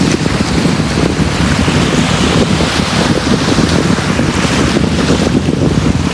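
Sea surf washing on a beach in a steady rush, with wind buffeting the microphone as a rough low rumble.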